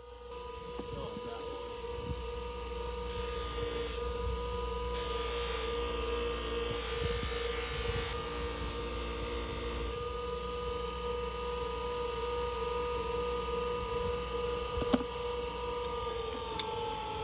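Restored vintage Stanley type 557 bench grinder running at full speed with a steady motor hum and whine. A hiss comes in between about three and ten seconds in, and there is a sharp click near the end, after which the whine begins to drop slightly in pitch.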